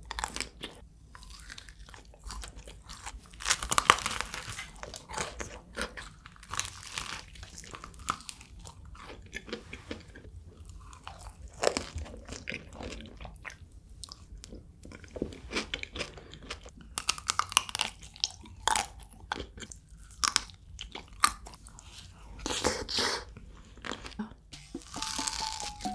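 Close-miked eating: a person biting into and chewing crunchy sweet food, with irregular sharp crunches and denser bursts of crunching every few seconds.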